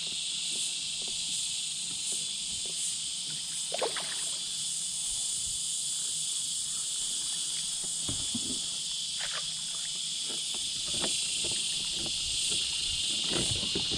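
Cicadas chorusing in the trees: a steady, high-pitched insect drone that never lets up, with a few faint knocks from the kayak and fishing gear.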